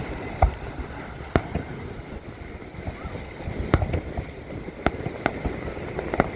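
Fireworks shells bursting, about six sharp bangs at irregular intervals, over a steady hiss of wind and surf.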